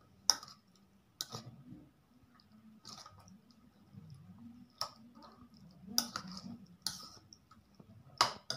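A metal spoon clicking against a plastic mixing bowl as pork pieces are stirred through a wet marinade. The clicks are sharp and irregular, about one a second, with the loudest near the end.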